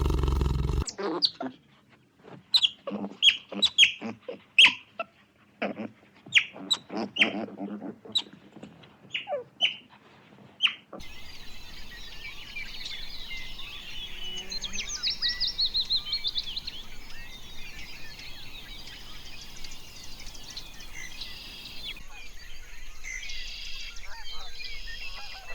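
Birds calling. First comes a series of short, sharp calls, one every half second or so. Then, after an abrupt cut about eleven seconds in, many small birds chirp and twitter together.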